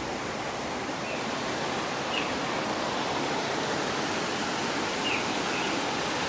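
Steady rush of water from a park pond's waterfall, with a few faint short high chirps scattered over it.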